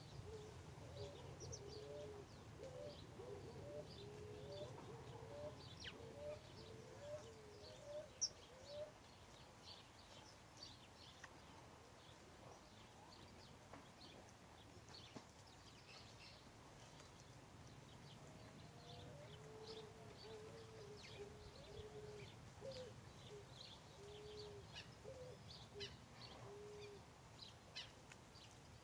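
Birds calling: a low call repeated about twice a second in a run over the first several seconds and again after the middle, with short high chirps from small birds scattered throughout.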